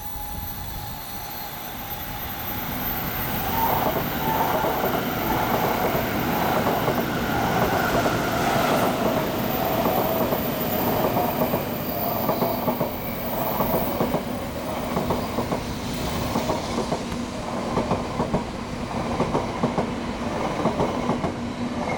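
A JR rapid electric train and a Shinkansen bullet train passing side by side. The rumble builds over the first few seconds, then turns to a fast, dense clatter of wheels on the rails that lasts to the end.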